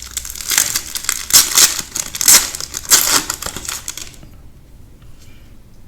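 Crinkly plastic card packaging being handled, crumpled and torn by hand for about four seconds, then stopping abruptly.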